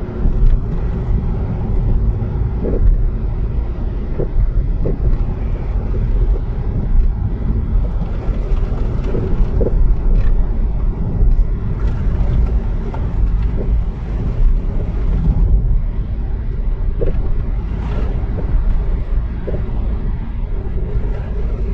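Car interior driving noise: a steady low engine and road rumble with a constant engine hum, the tyres running on wet, snow-covered road, and a few faint short knocks.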